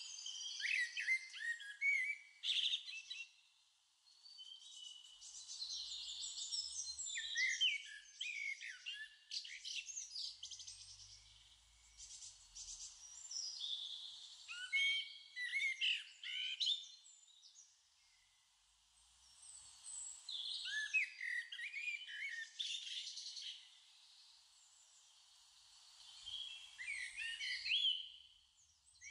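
Songbirds singing in phrases of quick chirps and trills, with short pauses between.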